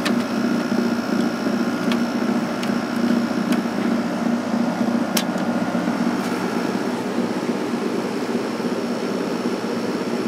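Late-1980s Emerson Quiet Kool 6,300 BTU window air conditioner running on its medium fan setting: a steady hum and airflow, with a few faint clicks in the first half.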